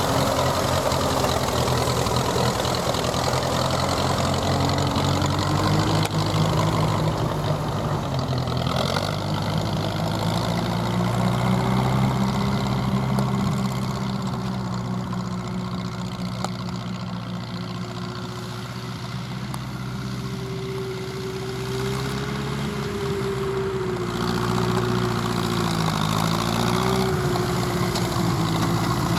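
1953 Ferguson TED-20 tractor's four-cylinder engine running on petrol at a steady low speed. The engine speed rises a little about ten seconds in and dips briefly near the end before recovering. The engine is worn and due for a rebuild.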